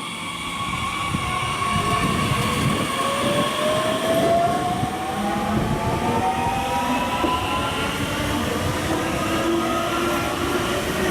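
Electric train on the rails, its wheels rumbling on the track while a whine from its drive climbs steadily in pitch, as when the train gathers speed.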